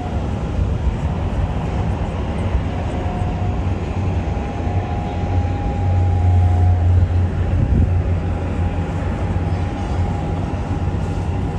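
Steady low rumble of a running vehicle with a faint steady whine above it, swelling slightly about six seconds in.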